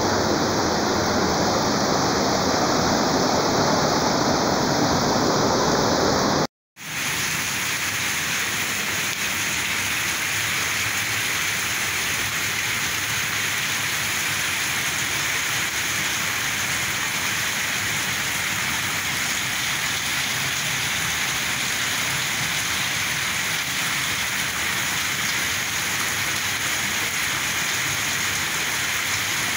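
Steady rushing noise of fast-flowing floodwater, cut off briefly about six seconds in, then heavy rain falling steadily on a flooded street.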